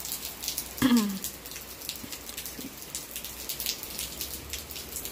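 Rain falling, with many distinct drops striking close by. A short voice sound with a falling pitch comes about a second in.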